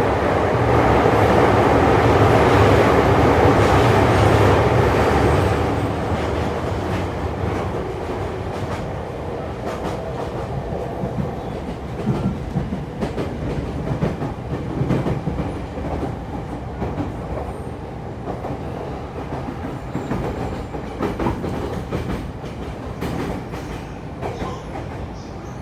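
E231-series electric train running on the rails: a loud rumble for the first six seconds or so, then quieter steady running with scattered rail-joint clicks.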